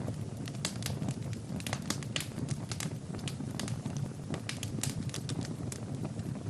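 Fire burning in a fireplace, crackling with frequent, irregular sharp pops over a steady low rumble of flames.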